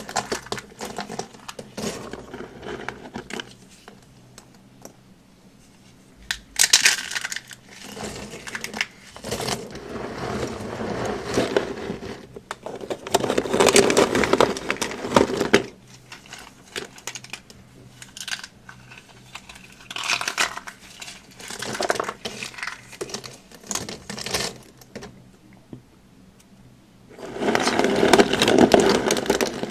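Crisp crunching and crumbling of dry, brittle material being pressed and broken by hand. It comes in irregular bursts of one to three seconds with quiet gaps between; the longest, loudest bursts fall near the middle and near the end.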